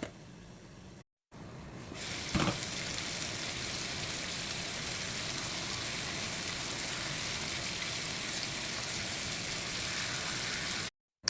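Chicken frying in oil in a pan, with a steady sizzle that grows louder after a short break about a second in. One brief knock of a utensil on the pan comes about two and a half seconds in.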